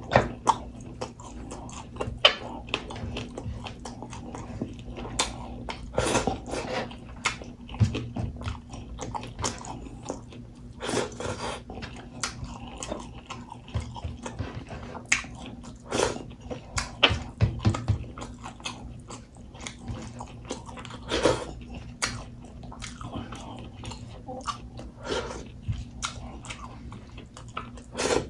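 Close-miked chewing of a handful of rice and pork, with many sharp, wet mouth clicks and lip smacks at an irregular pace.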